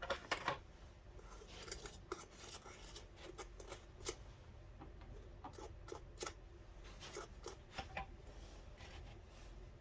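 Irregular light clicks, snips and scrapes of hand work.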